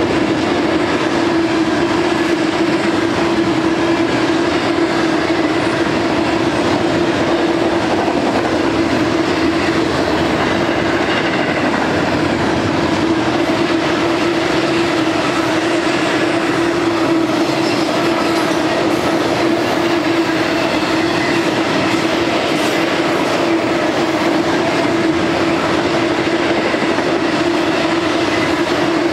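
Long double-stack and trailer intermodal freight train rolling past: the steady noise of the cars' wheels on the rails, with a constant drone running through it.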